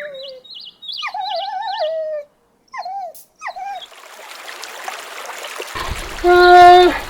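A dog, likely a puppy, whimpering and whining in a series of high, wavering, falling whines. After about four seconds running water comes in, and near the end there is a short, loud, level-pitched call.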